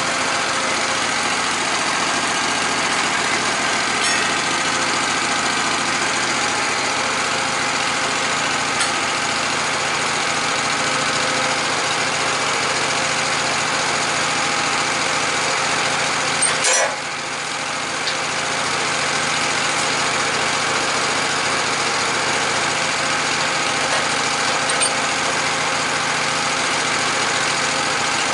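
Sawmill engine running steadily. About two-thirds of the way through there is a sharp click and the sound briefly drops before coming back up.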